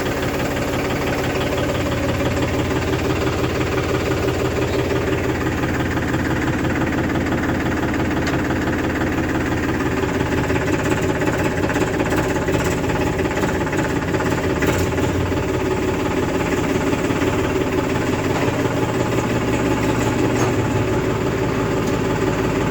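Heavy diesel engine running steadily, with small shifts in pitch and a few faint clicks about halfway through.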